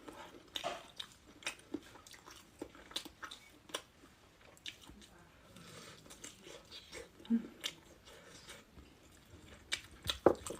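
Close-miked chewing of Cantonese-style Chinese cured sausage (lap cheong): a string of wet mouth clicks and smacks, with a couple of louder bites about seven and ten seconds in.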